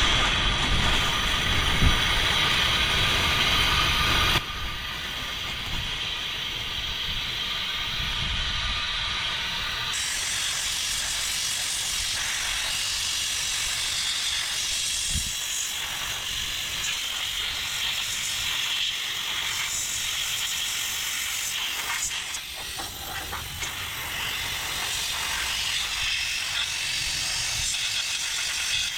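Siphon-feed sandblast gun blasting a brake part inside a vinyl bag: a steady hiss of air and abrasive that drops in level after about four seconds and changes again about ten seconds in.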